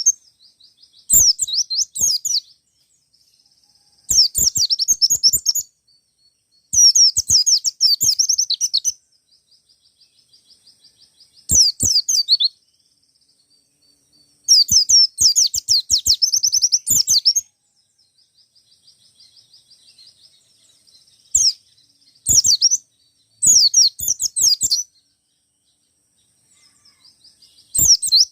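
A white-eye (pleci) sings in repeated loud bursts of rapid, high-pitched warbling, each one to three seconds long. Softer twittering fills the pauses between bursts. This is the insistent calling song of a wild-caught bird, used to provoke other white-eyes into singing.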